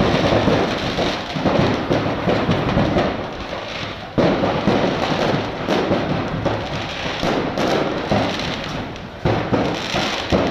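Stock of a burning firecracker shop going off: loud, continuous crackling and popping of firecrackers, with louder bursts about four seconds in and near the end.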